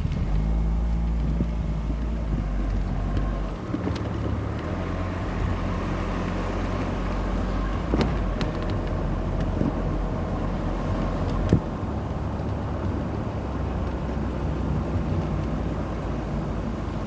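Car driving: steady low road and engine rumble, with two short knocks about eight and eleven seconds in.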